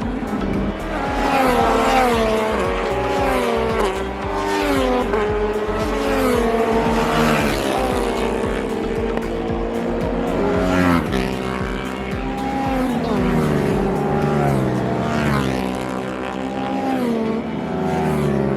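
Several Yamaha MT race motorcycles going by on the track, one after another. Their engines climb in pitch and drop back with each gear change, and several overlap at once.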